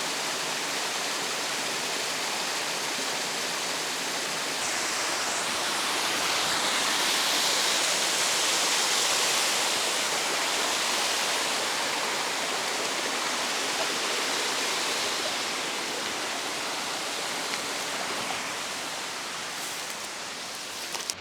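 Waterfall running: a steady rush of falling water that swells from about five seconds in and eases off toward the end.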